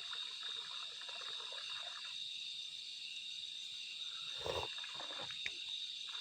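Steady high-pitched chorus of insects, such as crickets, with a brief soft low sound about four and a half seconds in.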